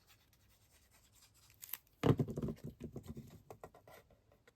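Paper and card strips being rummaged and shuffled on a craft desk: a cluster of rustles and light taps starting about two seconds in and dying away a couple of seconds later.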